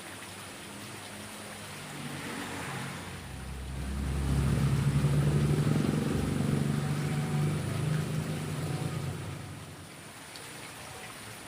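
A motor vehicle passing close by, its engine hum swelling over a few seconds, holding, then fading away, over the steady rush of flowing water.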